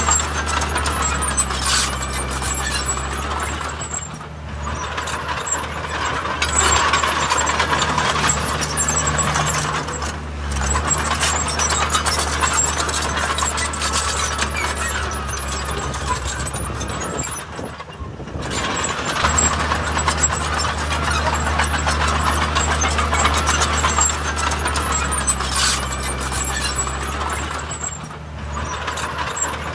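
Heavy diesel earthmoving machinery running steadily, with metallic clanking and clatter over the low engine hum. The sound eases off briefly about four times before picking up again.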